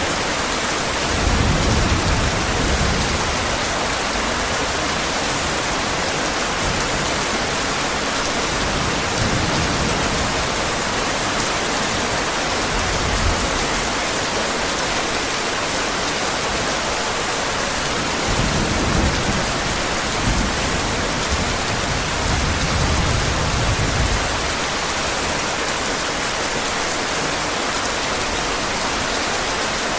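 Heavy rain falling steadily, with low rumbles of thunder swelling several times, the longest in the second half.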